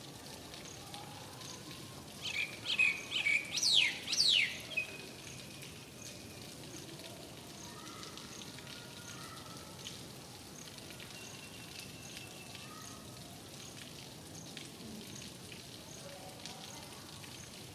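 Steady rain falling. About two seconds in, a bird gives a quick series of loud, sharp chirps and sweeping whistles lasting a couple of seconds. A faint high tick repeats about every two-thirds of a second behind it.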